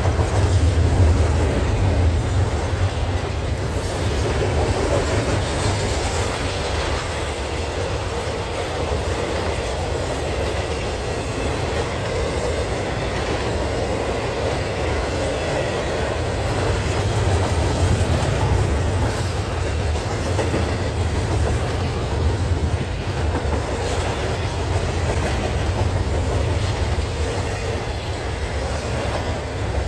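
Double-stack intermodal container train passing close by: steady low rumble of its well cars' wheels rolling on the rails, with a few faint clicks.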